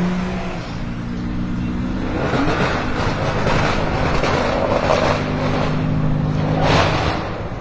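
BMW M6 F06 Gran Coupe's twin-turbo V8 sounding through an Akrapovic exhaust, settling at about the start into a steady engine note at held revs. There is a brief louder burst near the end.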